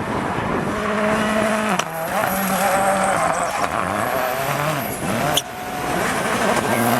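Rally car engine accelerating hard under load. Its pitch climbs and then drops sharply at gear changes about two seconds in and again about five and a half seconds in, each shift marked by a sharp crack.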